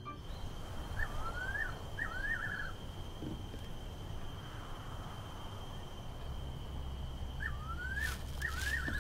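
A bird calls twice, each time a short run of quick rising chirps, about a second in and again near the end. Under it are a faint steady high whine and a low rumble that grows louder after about six seconds.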